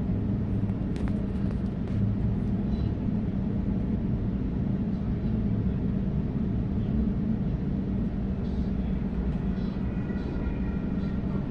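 Steady rumble and hum heard inside a moving Sydney Trains Waratah electric passenger carriage, with a short click about a second in.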